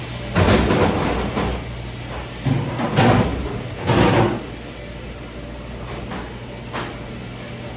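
Three loud bursts of clattering and banging, then a single sharp click near the end, over a steady low hum.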